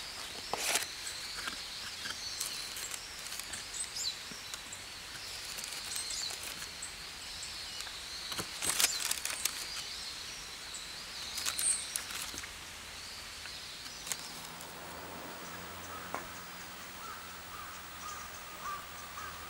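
Small birds chirping over outdoor ambience, with a few sharp clicks and knocks. About two-thirds of the way in a faint steady low hum comes in.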